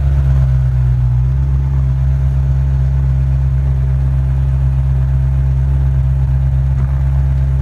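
Ferrari F355's 3.5-litre V8 idling steadily through a full Tubi exhaust, a loud, even low drone that settles slightly about a second in.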